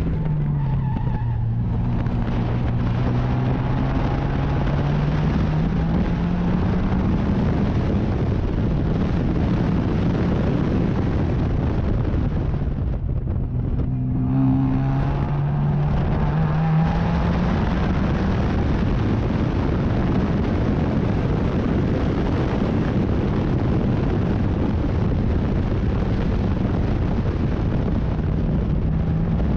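Racing sports car engine at full race pace, heard from on board: the revs drop at the start and again about halfway through, then climb steadily as it pulls hard through the gears. A constant rush of wind and road noise runs under it.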